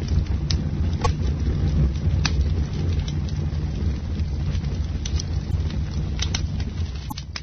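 Campfire burning: a steady low rumble of the flames with scattered sharp crackles and pops from the wood, the sound starting to fade out near the end.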